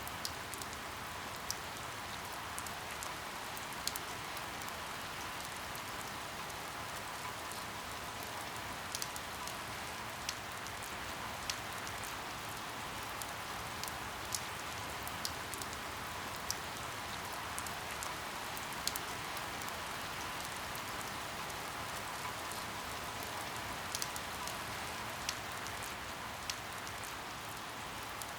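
Steady rain falling, with single drops landing as sharp ticks every second or so.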